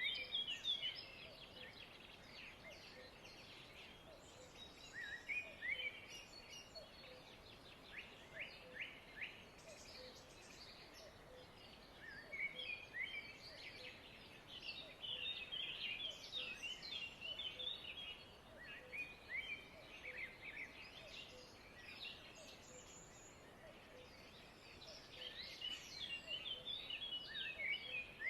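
Small birds chirping and twittering in bursts of quick, sharply falling notes, with short lulls between the bursts.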